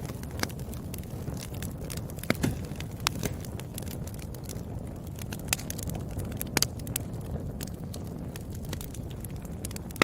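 Wood fire burning, with a steady low rumble and irregular sharp crackles and pops, a few louder pops scattered through.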